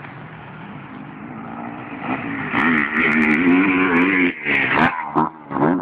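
Motocross bike engine revving as it comes closer, louder from about two seconds in. Its pitch rises and falls with the throttle, and it drops out briefly a couple of times near the end.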